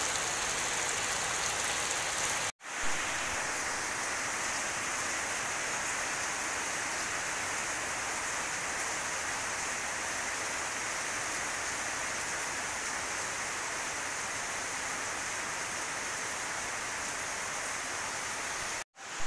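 Steady rain falling, an even hiss with no other distinct sound, broken by a brief cut to silence about two and a half seconds in and again just before the end.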